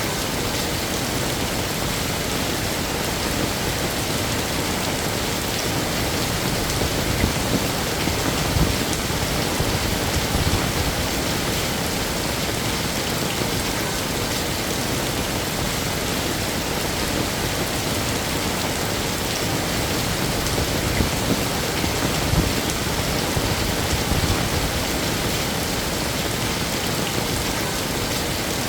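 Heavy rain falling steadily in a dense, even hiss, with a few brief louder low surges about a quarter of the way in and again past two-thirds.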